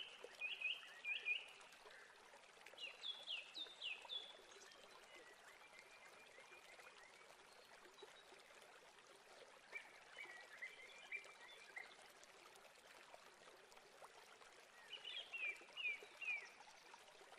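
Faint bird chirping: about five short runs of quick, high chirps spaced several seconds apart, over a faint steady hiss.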